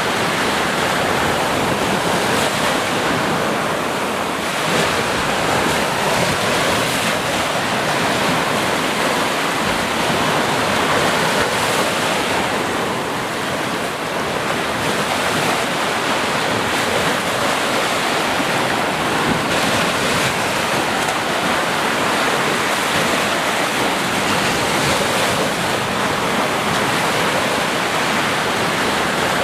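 Ocean waves washing continuously onto the shore, a steady surf rush that swells and eases gently.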